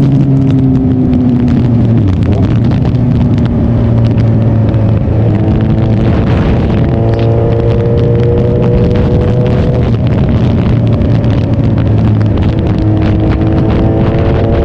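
Suzuki Hayabusa's inline-four engine running on the move, with wind rushing past. The engine pitch sags slightly at first, holds steady, then climbs in stages later on as the bike picks up speed.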